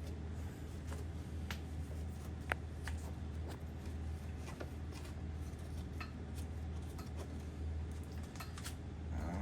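Scattered light clicks and taps from handling lubed main bearings and small parts, one sharper click about two and a half seconds in, over a steady low hum.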